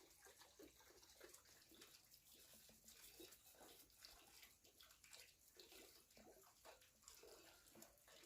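Near silence: faint background with small scattered sounds.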